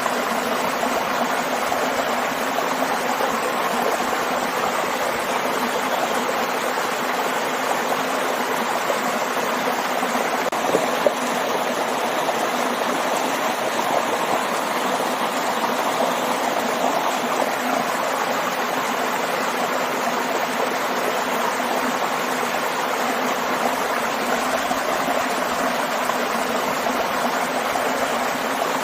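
Waterfall and stream: water running and splashing steadily, with no change in level.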